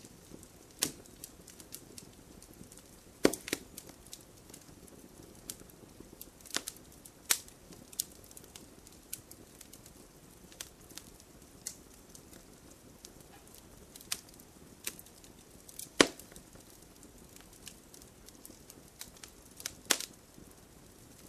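Wood fire crackling in a fireplace: irregular sharp pops and snaps over a faint steady hiss, the loudest pops about three seconds in and about sixteen seconds in.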